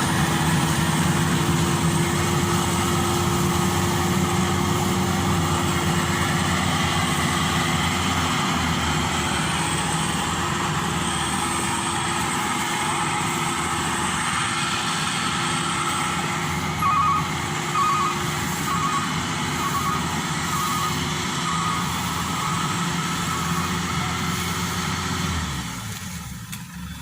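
Maxxi Bimo 102 combine harvester's engine running steadily at working speed. A run of short beeps, a little more than one a second, sounds for about five seconds, and the engine noise falls away sharply near the end.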